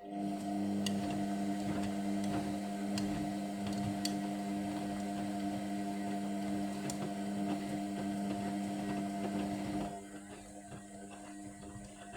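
Indesit washing machine's drum motor starting up and turning the drum during the main wash: a steady humming whine that starts suddenly, with a few faint clicks, then drops in level about ten seconds in as the motor eases.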